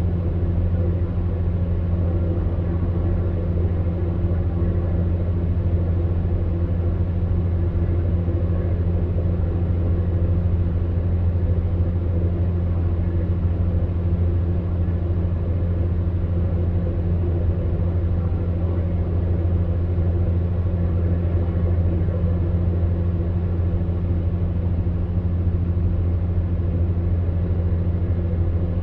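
Fan heater running: a steady low hum with fainter tones above it, over the even rush of its fan.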